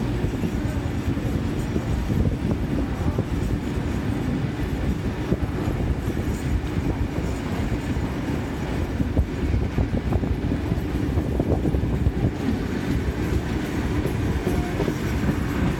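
Vintage passenger carriages running along the track, heard from a carriage window: a steady rumble of wheels on rail with irregular clacks and knocks from the running gear.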